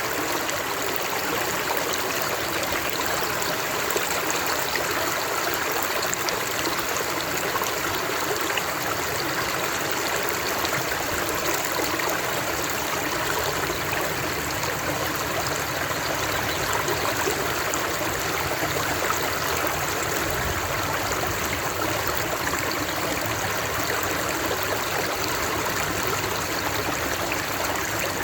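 Flowing water from a stream or small waterfall, a steady splashing rush with no change in level.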